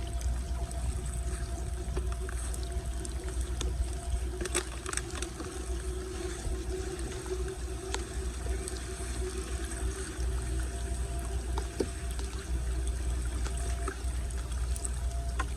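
Floodwater pouring and trickling steadily into a cleared street storm drain, with a low rumble and a few short clicks about four to five seconds in.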